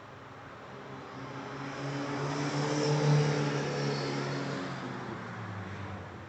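A car driving past: its engine note swells to its loudest about three seconds in, then fades, the pitch dropping slightly as it goes away.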